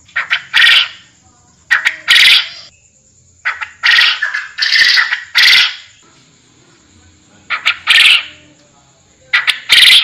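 Forest quail calling: loud, harsh call bursts that start suddenly, come in short clusters and repeat every second or two.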